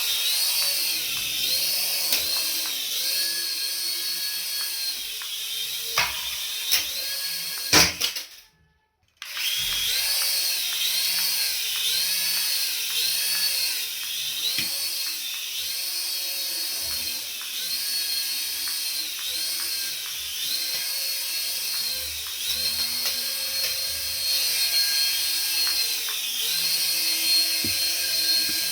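High-pitched whine of a remote-control toy's small electric motor, rising and falling in pitch over and over as it speeds up and slows down. A few sharp clicks come near the middle, and the sound drops out completely for about a second.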